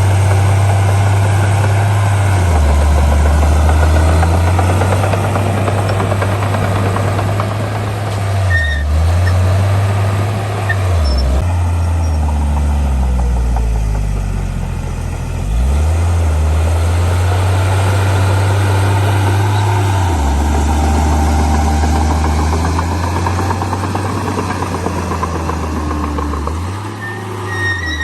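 Heavy diesel earthmoving machinery running, with a deep engine note that drops and rises several times, most markedly around the middle.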